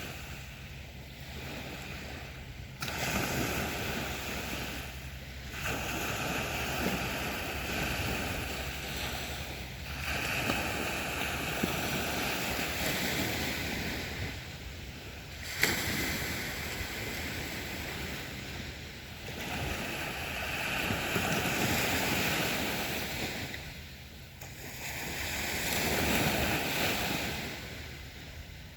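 Sea waves breaking on a beach, the surf swelling and falling back every few seconds, with a sharper crash about three seconds in and another about halfway through.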